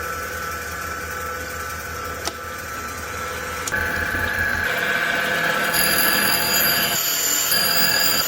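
Valve refacing machine running, its grinding wheel grinding the face of a small block Chevy intake valve to 45 degrees. The sound steps up in loudness a little under four seconds in, and a high whine comes in about two-thirds of the way through.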